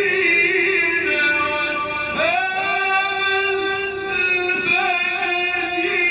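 A man's voice chanting Quran recitation in long held, ornamented notes, with slides between pitches about two seconds in and again near five seconds.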